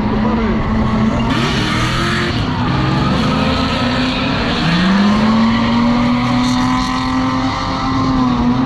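Car engine revving hard, its pitch climbing about five seconds in and then held at high revs, over a loud, busy background.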